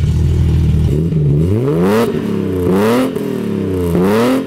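BMW E30 325i's M20 straight-six with a straight-piped exhaust, idling and then revved three times about a second apart, each rev rising and falling back. It revs smoothly, with no hesitation.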